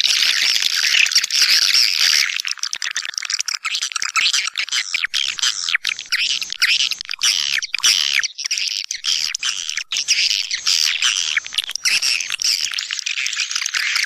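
A flock of swiftlets twittering in dense, continuous high-pitched chirps and rapid ticking calls, a swiftlet call sound.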